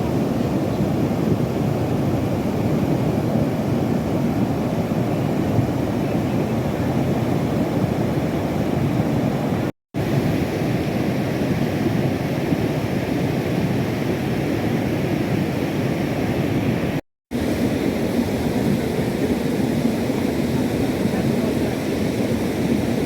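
Steady rushing of a stream swollen by a flash flood. It cuts out for a moment twice, about ten seconds in and again near seventeen seconds, then carries on the same.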